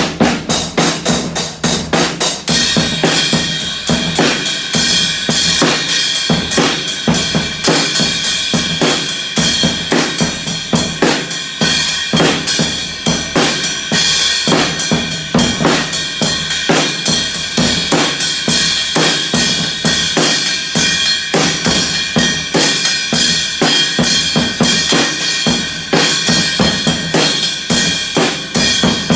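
Drum kit played at a steady, fast beat, with bass drum, snare and rimshot hits and a steady high cymbal ringing that sets in a couple of seconds in.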